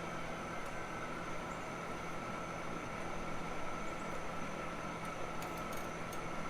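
A steady mechanical hum with a constant drone, with a few faint light ticks about five and a half seconds in.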